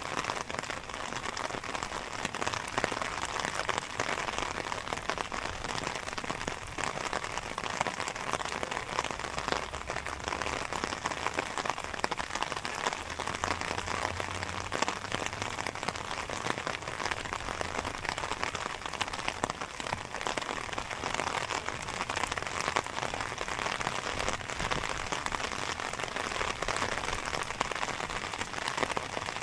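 Steady rain falling, a dense even patter of many small drop hits. A faint low hum comes in under it for several seconds in the middle.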